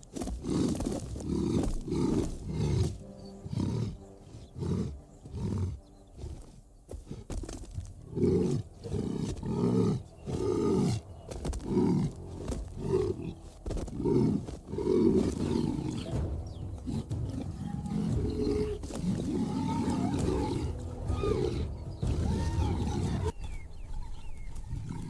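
Lion roaring and grunting: a long run of deep, rhythmic pulses, repeated roughly every half second to a second.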